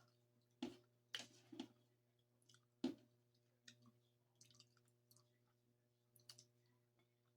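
Close-miked eating sounds: a few short wet smacks and clicks of chewing, the loudest about three seconds in, over a faint steady hum.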